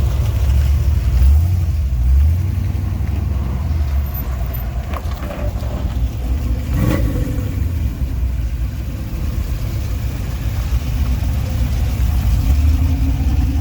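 Car engines rumbling low and steady as cars drive in at low speed.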